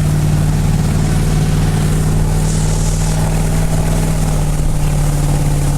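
Motorboat engine running steadily at an even pitch while the boat is under way, towing skiers.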